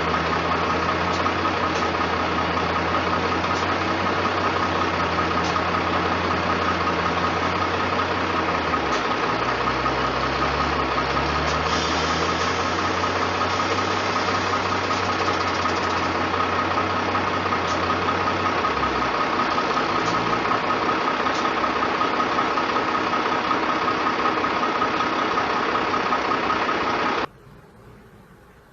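Truck engine running steadily, its pitch wavering about a third of the way in. The sound cuts off abruptly near the end.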